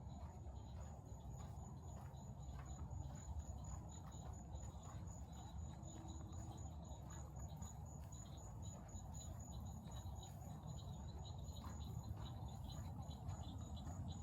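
Crickets chirping in a steady, high, rapidly pulsed trill, faint, over a low rumble.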